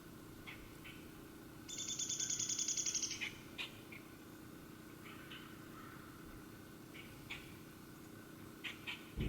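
A songbird's rapid, dry trill of evenly spaced high notes about two seconds in, lasting over a second, with scattered short high chips before and after it.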